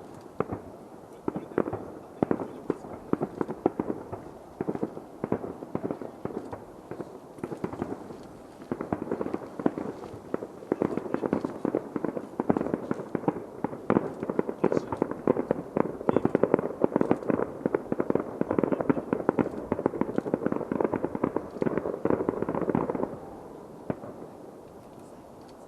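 Distant fireworks: a stream of muffled bangs and crackles that thickens into a rapid nonstop barrage about a third of the way in, typical of a show's finale, then stops suddenly near the end.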